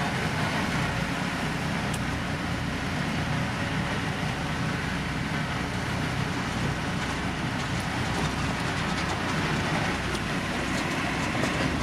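Heavy diesel road-construction machinery running steadily under work, a continuous low engine rumble with a broad noisy wash over it. Faint ticks or crackles join in during the second half.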